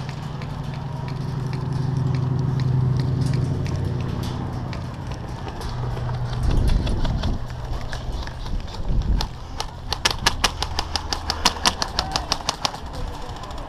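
A low engine-like hum swells and fades over the first eight seconds. Then, from about ten seconds in, an airsoft gun fires a fast, even string of shots, about five a second.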